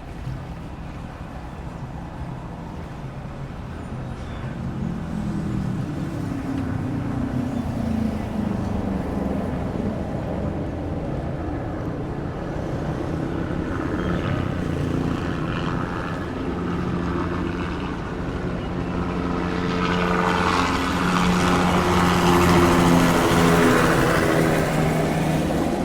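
A motor engine running and drawing closer, its pitch shifting early on and then holding steady, growing louder until it is loudest a few seconds before the end.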